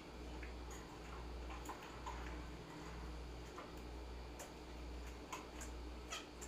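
Pet finches and parakeets making scattered short chirps and sharp clicks, over a steady low hum.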